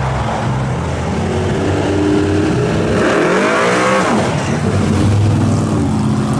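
Pontiac GTO's V8 running as the car drives past, revving up about three seconds in, then dropping in pitch as it goes by.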